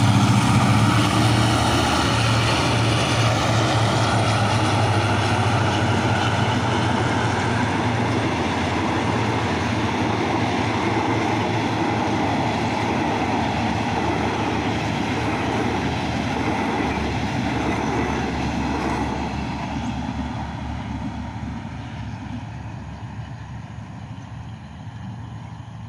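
Diesel locomotive passing close by with its engine droning, followed by a long train of passenger carriages rolling over the rails; the sound fades away over the last several seconds as the train recedes.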